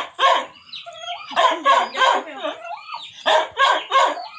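Dog barking in quick runs of several short barks, with brief pauses between the runs.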